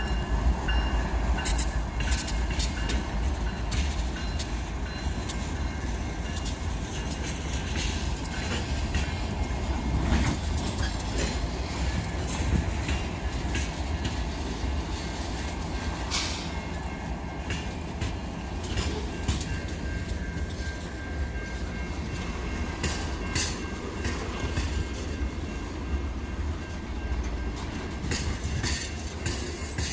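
Freight train rolling past: a steady low rumble with frequent sharp clicks and clacks of wheels over the rail joints.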